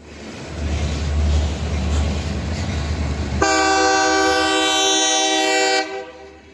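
Norfolk Southern diesel locomotive rumbling, then its air horn sounds one long blast of about two and a half seconds, starting about halfway through and cutting off sharply.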